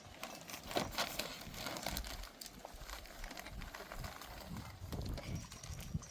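Irregular rustling and crackling with scattered light clicks and knocks.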